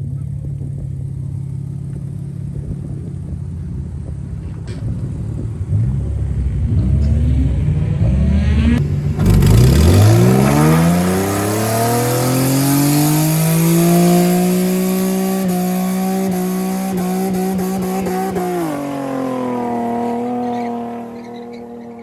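A car engine with a low idling rumble, then revving hard about nine seconds in: the pitch climbs steeply and holds high for several seconds. The pitch drops about nineteen seconds in and the sound fades near the end, as the car accelerates past.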